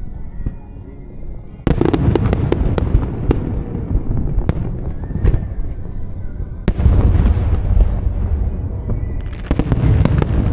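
Aerial fireworks going off: a deep boom comes in suddenly about two seconds in, followed by dense crackling pops. Two more large volleys of booms and crackles follow, about seven seconds in and near the end.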